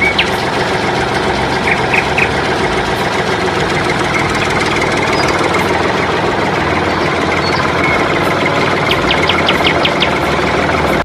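An engine running steadily, with a quick run of clicks about nine seconds in.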